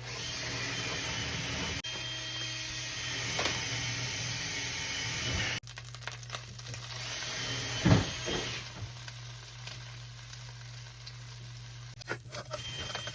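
Shredded kataifi pastry sizzling in a pan as it is toasted and stirred. The sizzle cuts off suddenly a little past halfway, then returns more quietly with one sharp knock.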